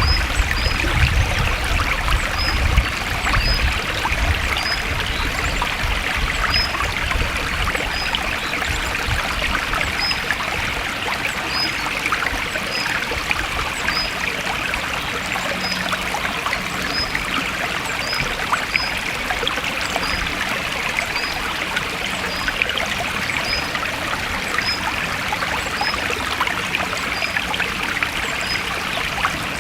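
Forest stream flowing and trickling steadily, with a short high chirp repeating about once a second.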